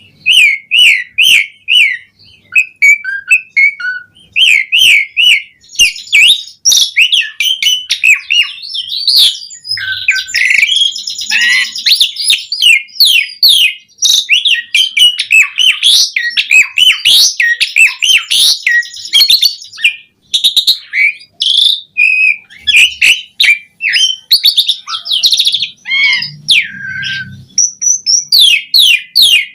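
Asian pied starling (jalak suren) singing a long, fast, varied song of whistles, chatters and clicks, full of imitated calls of other birds.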